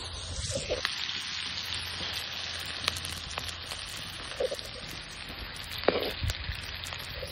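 Sliced onions and green chillies sizzling in hot oil in a metal wok, a steady frying hiss. A metal skimmer ladle stirring in the wok gives a few sharp clicks and scrapes, the loudest about six seconds in.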